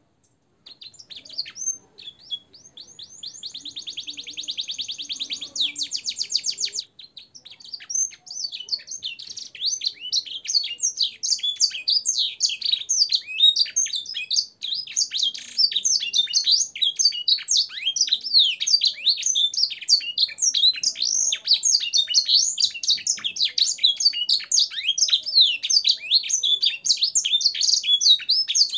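Canary in full song (gacor), filled with blackthroat and sanger phrases: a fast, even trill of about four seconds, then a long, rapid, varied run of high, mostly down-sliding notes without a break.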